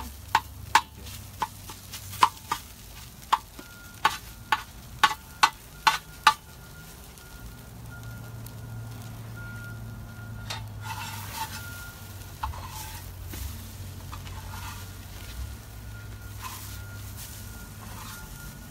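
Food sizzling on a propane griddle cooker while a metal spatula clacks against the cooking surface: about a dozen sharp clacks in the first six seconds, then steadier sizzling with only occasional scrapes.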